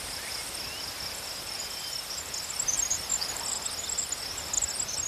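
Crickets trilling steadily in a high continuous tone, with scattered faint high chirps from about two seconds in.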